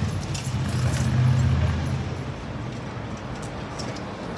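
A road vehicle's engine running with a low, steady rumble, loudest in the first two seconds and then fading away under general street hum.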